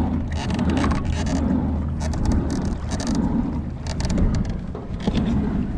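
Kayak paddle strokes dipping and splashing in river water, roughly once a second, with a cluster of short splashes or knocks in the middle, over a steady rumble of wind on the microphone.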